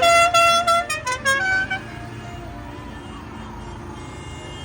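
Musical vehicle horn playing a quick run of stepped notes, ending about two seconds in, followed by a vehicle running steadily.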